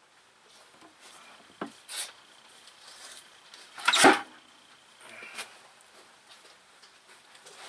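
Scattered clicks and knocks of long-reach cable-operated hose clamp pliers being worked in toward a radiator hose clamp, with one louder, short, rasping knock about four seconds in.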